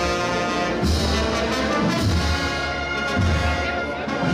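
Brass band playing a Holy Week processional march: trumpets and trombones holding full chords over a low beat about once a second.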